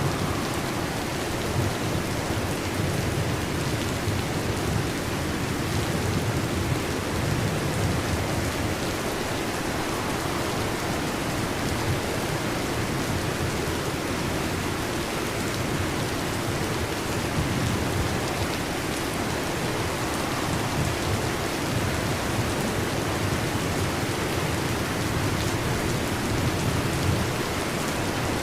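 Steady heavy rain, with a low, continuous rumble of thunder underneath and no sharp cracks.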